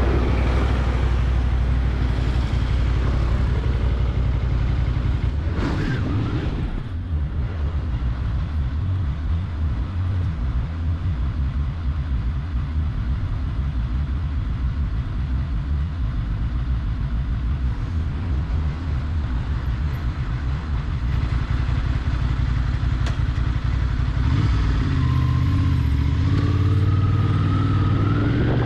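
Motorcycle engine running steadily with a heavy low rumble; near the end its pitch climbs as it speeds up.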